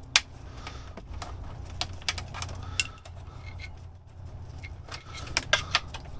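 Scattered metallic clicks and clinks of tools or parts being handled, a few sharp knocks close together near the end, over a low steady hum.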